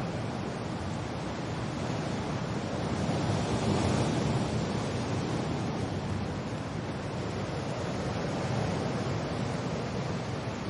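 Wind and rain, a steady rushing hiss that swells louder about three to five seconds in and eases off again.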